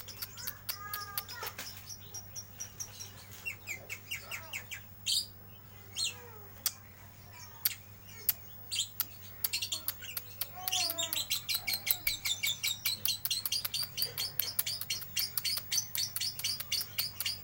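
Lovebird chattering in rapid, high-pitched chirps (the 'ngeriwik' song). The chirps come in scattered short bursts at first, then run together into a dense, fast, continuous chatter from about ten seconds in.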